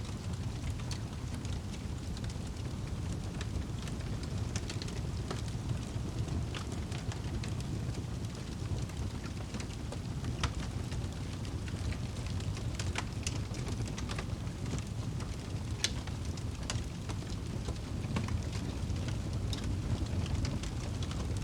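Wood fire burning in a fireplace: a steady low rumble of flames with scattered sharp crackles and pops, two of them louder, about halfway through and about three quarters through.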